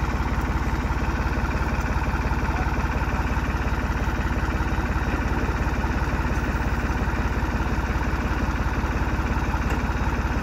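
New Holland TD65 tractor's diesel engine running steadily at low revs, with an even throb that does not change.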